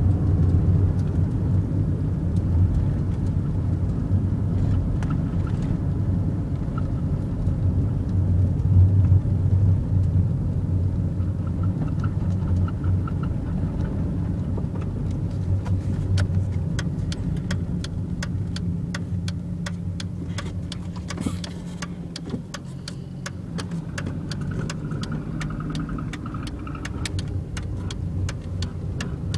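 Fiat Marea 2.4 20V five-cylinder engine running, with a rapid 'tché tché tché' ticking whose rate keeps pace with engine speed. The cause is unknown to the owner. The sharp ticks grow more frequent and stand out over the engine hum from about halfway through.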